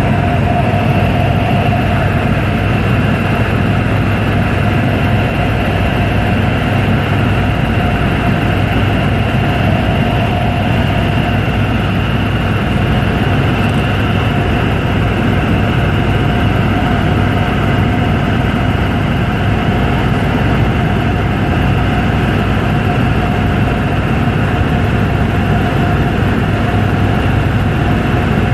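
Helicopter in flight: a steady drone of engine and rotor, with fixed whining tones over a low hum that holds without change.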